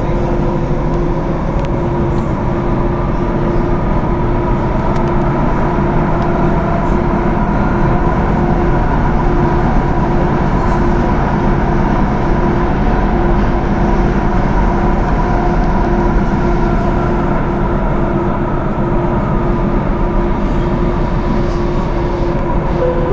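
Thessaloniki Metro train running between stations: steady rumble of the wheels and running gear with a constant hum and a fainter electric whine.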